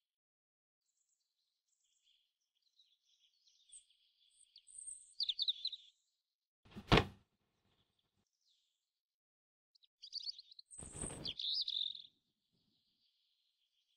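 Small birds chirping and twittering in short bursts, with a single sharp knock about seven seconds in and a brief rustling thud around eleven seconds.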